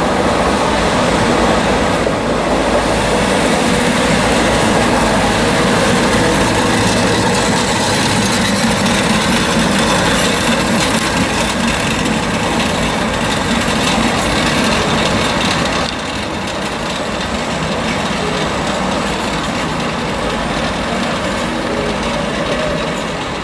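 SM2-class electric commuter train running on the rails, a steady loud rumble of wheels and carriages that drops a little about two-thirds of the way through.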